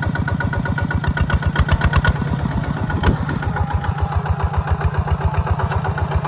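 Engine of a Kubota farm machine running at a steady idle with an even, rapid pulse. There are a few light clicks about one to two seconds in and a single sharp knock about three seconds in.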